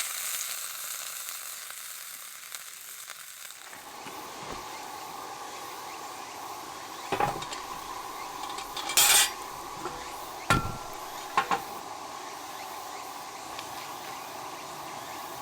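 Meat sizzling in a cast-iron Dutch oven, the hiss fading over the first few seconds. After that comes a steady background with a handful of sharp clinks and knocks of metal utensils and cookware.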